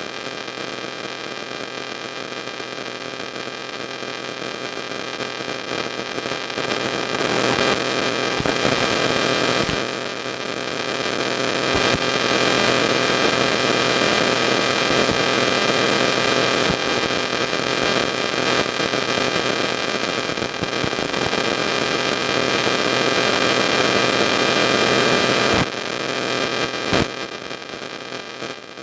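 Steady electrical hum and hiss. It swells louder for most of the middle and drops back about three seconds before the end, with a brief knock or two near the end.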